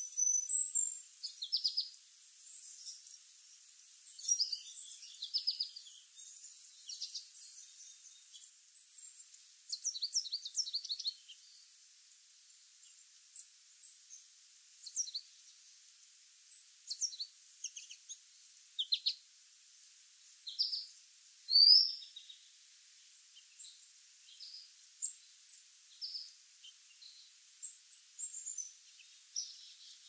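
Small birds chirping: short high calls come in scattered bursts, the loudest one about two-thirds of the way through, over a faint steady hiss.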